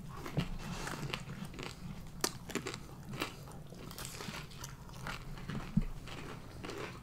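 A person chewing a crispy fried chicken wing close to the microphone, with irregular crunches as it is bitten and chewed.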